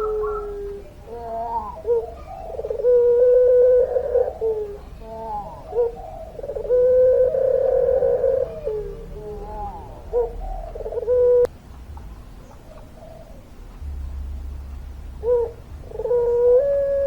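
Puter pelung dove cooing: long drawn-out calls held on one pitch, broken by shorter wavering notes. There is a single sharp click about two-thirds of the way through, then a quieter pause before the calls resume.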